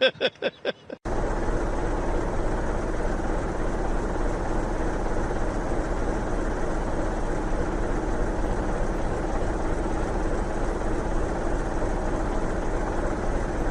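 Steady, unchanging motor-vehicle engine noise that starts suddenly after a cut. A low hum and a faint steady tone run through it.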